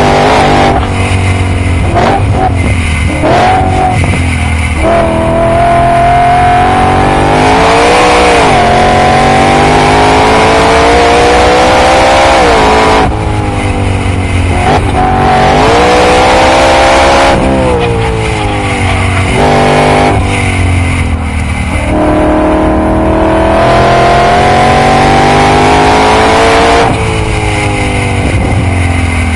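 Supercharged BMW E92 M3's S65 V8 with Akrapovic titanium exhaust at full throttle on track. Its pitch climbs steadily for several seconds at a time as it pulls through the gears, then drops sharply when the driver lifts and brakes, with quick rev blips on downshifts.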